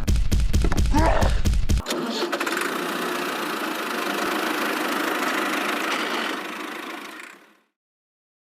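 A mini tractor's small engine chugging rapidly, cutting off abruptly about two seconds in. A steady hissing noise follows and fades out near the end.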